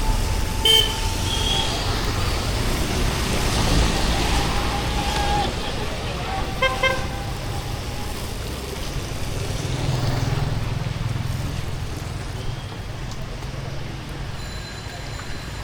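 Street traffic in the rain: a steady rumble of passing vehicles under an even hiss of rain. Short horn toots sound about a second in and again as a quick run of beeps near the middle.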